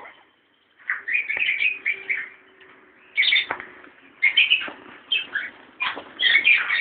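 Pet parrot eating: irregular bursts of crunching and cracking as it bites into its food, starting about a second in and coming in clusters every second or so.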